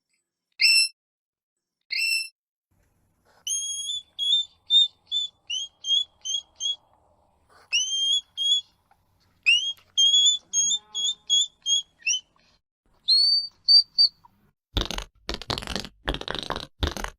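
Hedgehog giving high-pitched whistling peeps: short rising notes, then quick runs of four to six repeated peeps. Near the end comes a run of short, rough noisy sounds.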